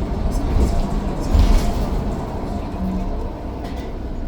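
Mercedes-Benz Citaro O530 bus running, a steady low rumble of engine and road noise, with a brief louder hiss of noise about one and a half seconds in.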